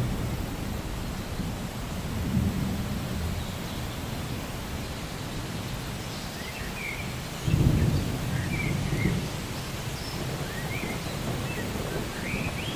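Steady rain with low rolls of thunder, the loudest breaking in suddenly just past halfway. A few faint short high chirps sound over the rain in the second half.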